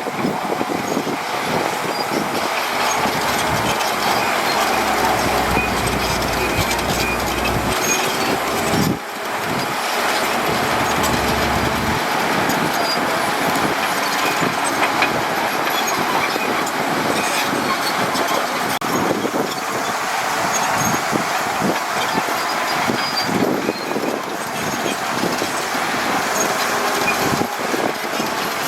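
Heavy diesel earthmoving machinery working: a bulldozer and dump trucks, with a continuous engine and mechanical din, and a brief dip about nine seconds in.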